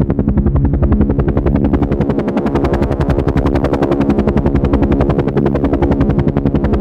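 Helicopter rotor chopping in a fast, even rhythm over a steady engine hum.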